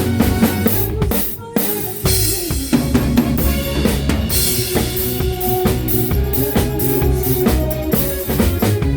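A live band playing, led by a drum kit: bass drum and snare keep a steady beat under bass and other sustained pitched instruments. A cymbal wash comes in about two seconds in and again a little past four seconds.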